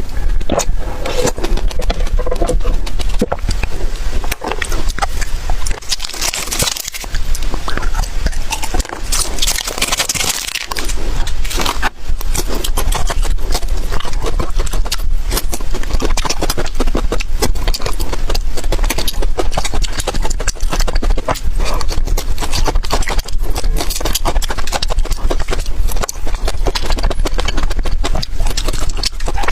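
Close-miked eating sounds: a person chewing and smacking food with dense wet clicks, busiest and brightest from about six to eleven seconds in, over a steady low hum.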